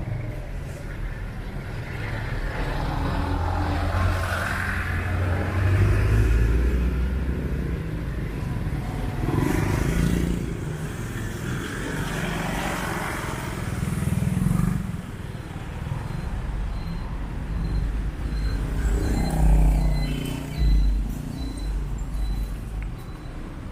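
Street traffic: motor vehicles passing close by one after another, the engine and tyre rumble swelling and fading every few seconds.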